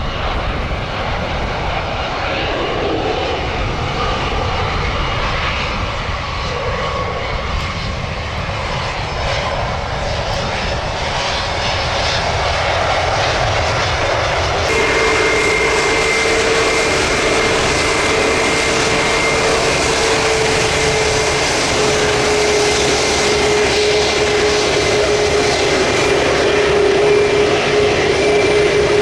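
Jet airliner engines running, heard with wind noise on the microphone. About halfway through the sound changes abruptly and a steady engine whine, with a lower hum under it, comes in and holds.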